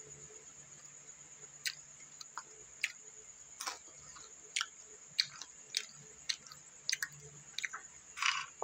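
Close-up chewing of crunchy dried fish: scattered sharp crunches and clicks at an uneven pace. Near the end comes a brief rustle as a hand picks through the pile of dried fish.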